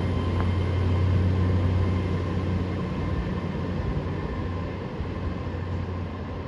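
Diesel train engine running steadily at the platform, a low hum that slowly fades a little.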